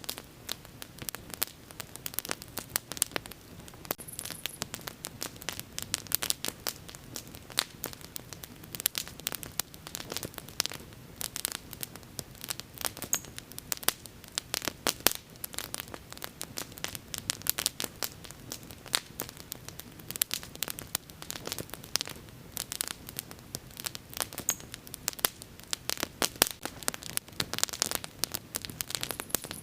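Bonfire burning with dense, irregular crackling and popping over a low, steady hiss of flames.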